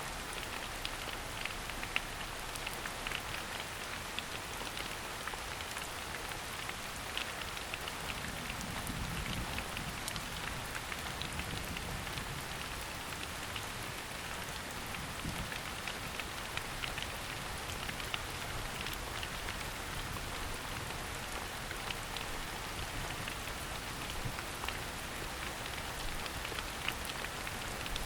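Steady rain falling on a forest, with many separate drops ticking on leaves.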